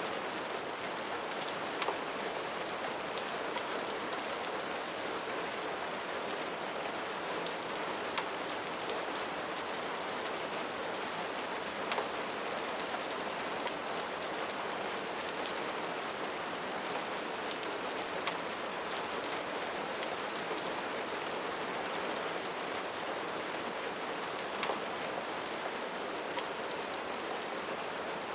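Steady rain falling on a surface, an even hiss with scattered sharp drip ticks.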